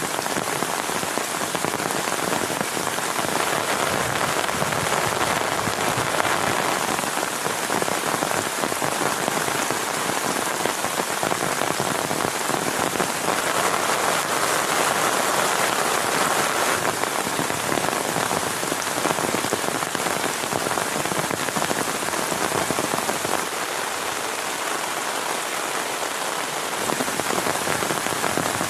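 Heavy rain falling steadily, thick with individual drop hits, swelling a little in strength twice.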